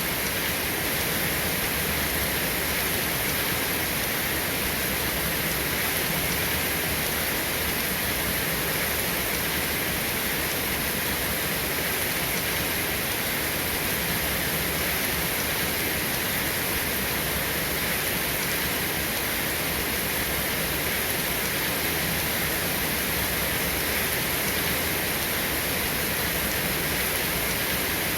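Steady rain, an even hiss with no breaks or thunder claps.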